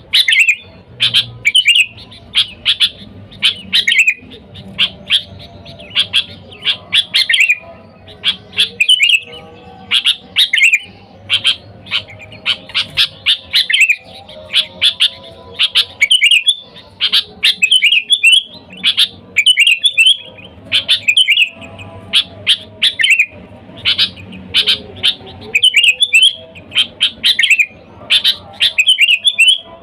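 Sooty-headed bulbul calling over and over, with short, bubbly chirping phrases in quick succession and brief gaps between them.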